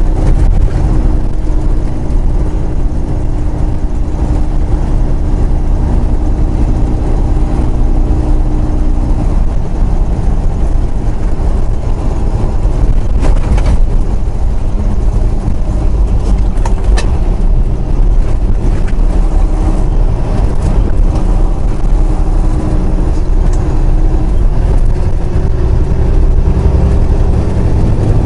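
Semi truck's diesel engine and road rumble heard from inside the cab: a steady low drone with a few faint clicks.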